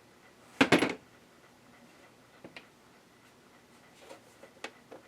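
A small hard object, such as a screwdriver or tiny screw, clatters briefly onto a hard surface a little over half a second in, followed by a few faint clicks of small parts being handled.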